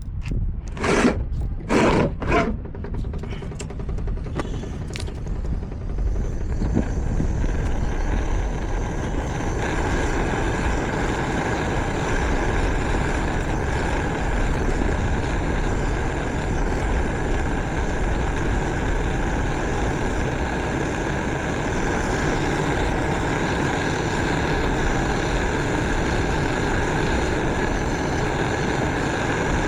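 Samsung front-load washing machine running after its spider arm was replaced: a few knocks at first, then a steady whir that builds over several seconds as the drum spins up and holds evenly.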